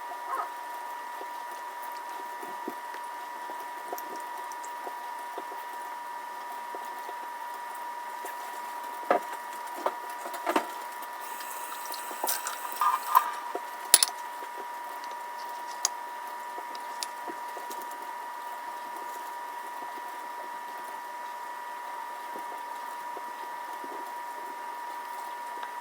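Scattered light clicks and knocks of kitchen handling, bunched in the middle with one sharper knock, over a steady high-pitched electrical hum.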